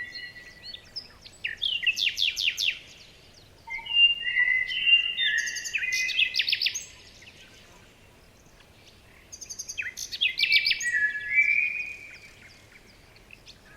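A songbird singing: three phrases of quick trills and whistled notes, each a couple of seconds long, with pauses between them.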